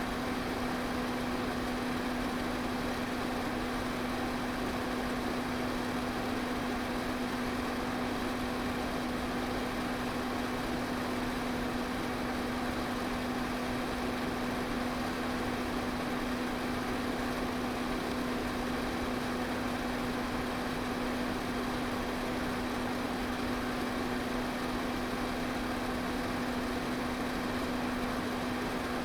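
Electric pedestal fan running steadily: an even rush of air with a constant motor hum underneath.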